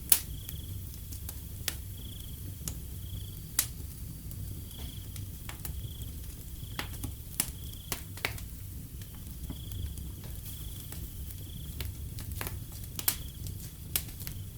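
Wood fire crackling with sharp, irregular pops, the loudest just after the start and near the end, over a steady low rumble. A cricket chirps at an even pace, about two short high chirps a second, with brief pauses.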